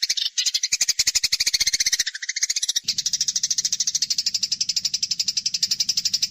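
Eurasian tree sparrow fighting call: a rapid chatter of high notes repeated many times a second, breaking off briefly about two seconds in.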